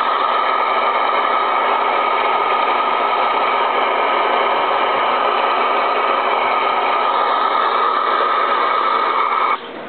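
Steady loud static hiss from the speaker of a Connex 3300HP 10-meter radio, with no signal coming in. It cuts off suddenly near the end.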